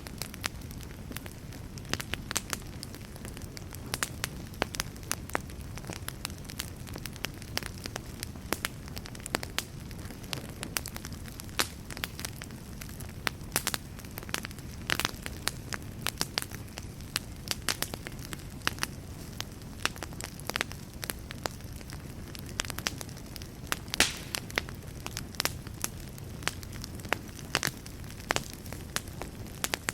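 Wood fire burning in a fireplace: a steady low rumble of flame with frequent irregular crackles and pops, one louder pop about three-quarters of the way through.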